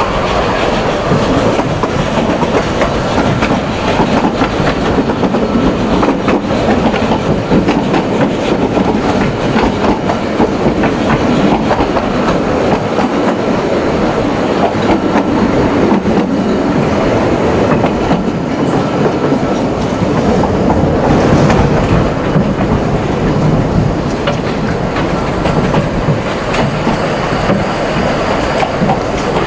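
Narrow-gauge railway train running along the track: a steady rumble with many small clicks and knocks from the wheels on the rails.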